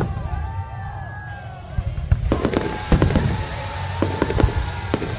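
Aerial fireworks: several whistling shells gliding up and down in pitch in the first two seconds, then a rapid run of sharp bangs and crackles from about two seconds in.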